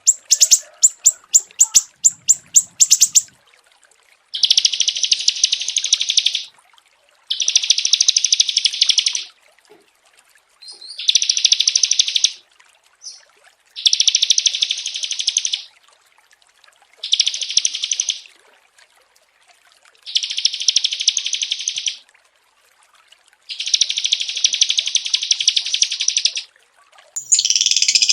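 Small songbird singing: a quick run of sharp, high chirps over the first three seconds, then a series of eight long, dense, high trills of about two seconds each, separated by short pauses.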